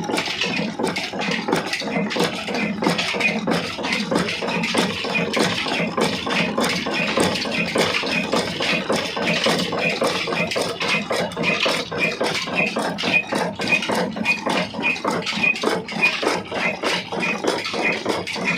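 Old Ruston Hornsby slow-speed diesel engine running steadily, a rapid, continuous clatter of mechanical knocks.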